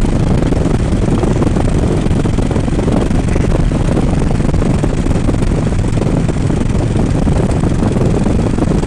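Steady wind rush over the microphone with motorcycle engine and road noise underneath, as at an even cruising speed.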